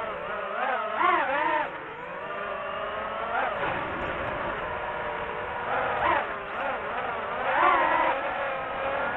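Quadcopter drone's propellers whining, the pitch rising and falling again and again as it speeds up and slows down.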